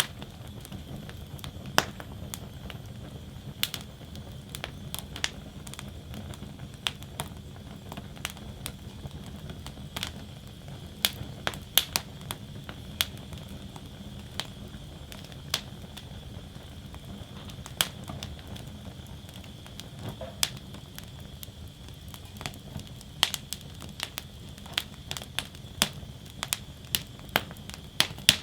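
Wood fire burning in a fire basket, crackling with irregular sharp pops and snaps over a steady low rumble.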